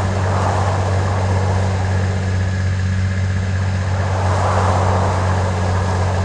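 Steady cabin noise of an airliner: a constant low engine drone under a broad rushing hiss that swells and eases slightly.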